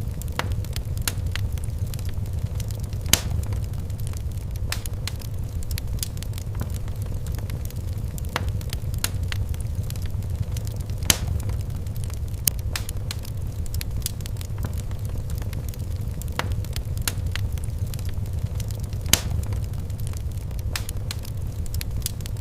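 Fireplace crackling: a steady low rumble of burning with many scattered sharp pops and snaps, a few much louder pops standing out now and then.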